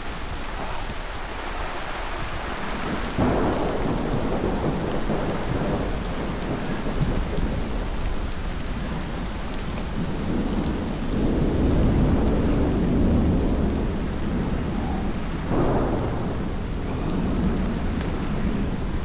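Thunderstorm: heavy rain falling steadily, with a sudden clap of thunder about three seconds in, a long low rolling rumble a little past midway, and another clap near the end.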